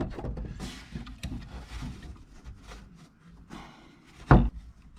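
Scattered light clicks, scrapes and rattles of metal parts being handled, with one sharp knock a little over four seconds in.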